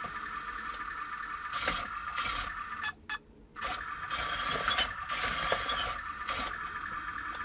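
Mini radio-control toy battle tank running, its small drive mechanism giving a steady mechanical drone that stops briefly about three seconds in and then starts again, with a few clicks.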